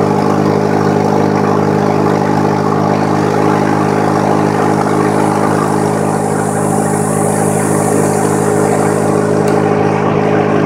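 Polaris Slingshot's engine running at a steady speed through an aftermarket Hot Shot exhaust, a constant, even exhaust note with no change in pitch.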